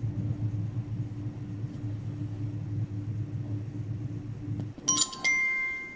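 Low steady hum of a car's running engine heard in the cabin, cutting off about five seconds in. A click and a short electronic chime of a few held tones follow.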